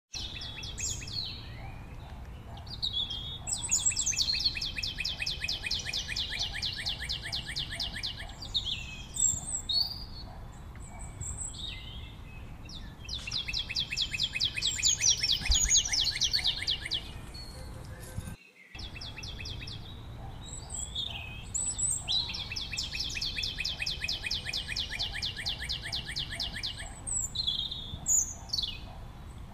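Birds singing: three long, fast trills of about four seconds each, with short chirps between them.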